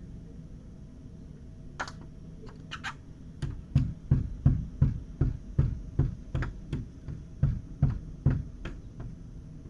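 A run of sharp taps or knocks, each a dull thump with a click, about two to three a second, starting a few seconds in after a few scattered lighter clicks and stopping near the end.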